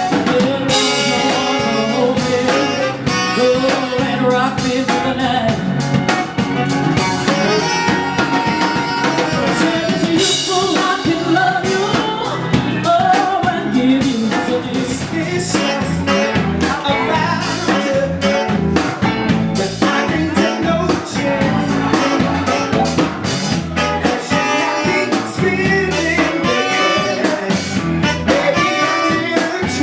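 Live blues band playing, with a woman singing over drum kit and guitar at a steady beat.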